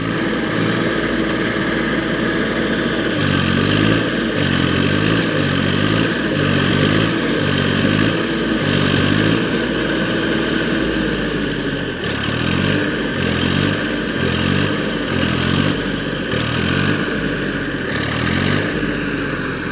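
Tractor engine running hard, its pitch rising and falling in quick repeated swings, about one and a half a second, over two long stretches, with steadier running between them: the tractor is stuck in mud and labouring to pull free.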